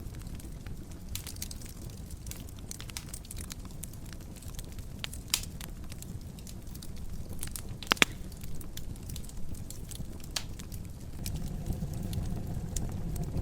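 Wood fire in a fireplace crackling over a low steady rumble of flame, with a sharp pop about five seconds in and a louder double pop about eight seconds in. The low rumble swells a little near the end.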